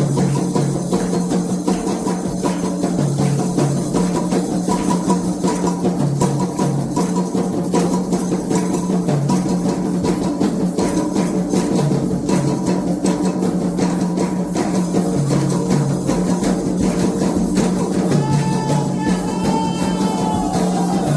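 Candomblé ritual music: fast, steady drumming with rattling percussion and a low repeated two-note pattern. Voices come in singing near the end.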